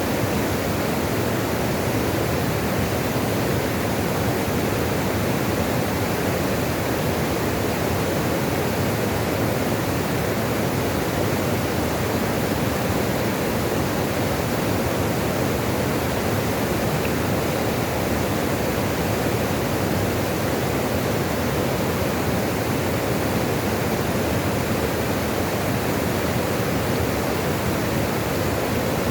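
Running water: a steady, unbroken rush with no single splashes or drips standing out.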